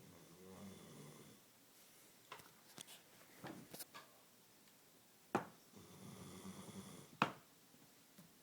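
A sleeping dog snoring softly: two long, low snores about five seconds apart, with a few sharp short clicks in between, the loudest near the end.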